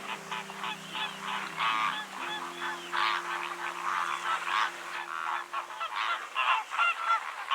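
A flock of birds giving many short goose-like honking calls, overlapping and close together.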